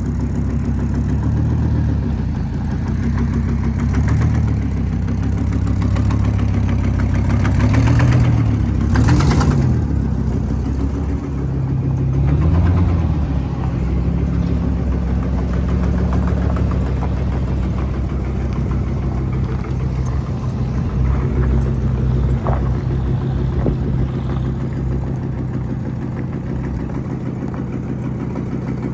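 An old farm truck's engine running, its pitch rising and falling several times in the first half as it is revved or driven, then settling to a steady idle.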